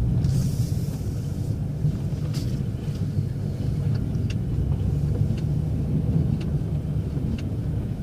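Plow truck running at low speed, a steady low drone heard from inside the cab, with a short hiss early on and faint ticks about once a second.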